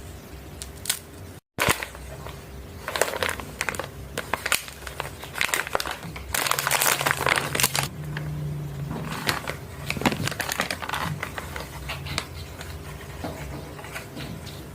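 A plastic biscuit wrapper crinkling and crackling as it is handled and torn open, in irregular sharp crackles with a denser, louder stretch of crinkling about six seconds in.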